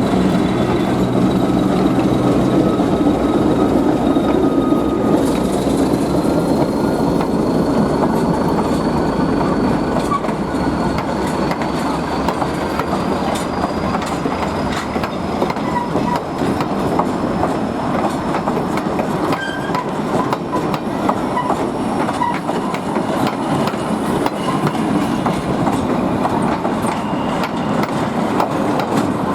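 A slow passenger train rolling past. The ALCO RS-1 diesel locomotive's engine hum is heard for the first few seconds and fades, then the wheels of the cars click steadily over the rail joints, with a faint high squeal of wheel on rail.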